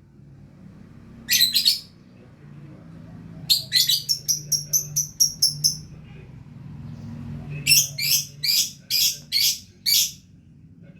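Lovebird in full song, giving bursts of rapid, high-pitched chirps: a short burst about a second in, a fast run of chirps around four seconds in, and a slower series of about seven loud chirps near the end.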